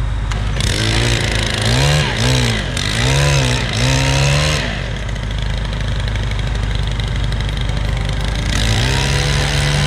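Gas leaf blower's two-stroke engine revved, its throttle blipped up and down several times with a rush of air, then dropping back to a lower speed before being opened up again and held near the end.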